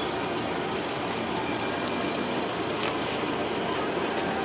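A car engine running steadily with low, even vehicle noise while the car is being parked.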